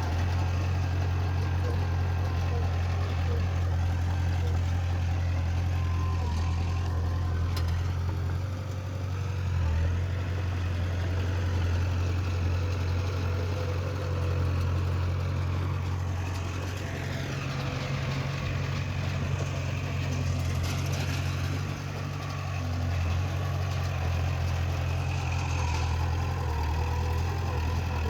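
Heavy diesel engine of earthmoving machinery running steadily, a low drone that dips slightly in level a couple of times.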